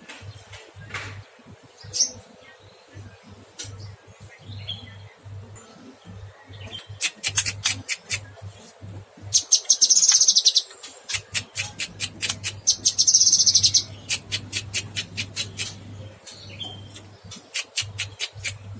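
Cucak kinoy songbird singing: scattered calls at first, then long rapid-fire runs of sharp, high notes with two dense buzzing bursts partway through. A steady low hum lies underneath.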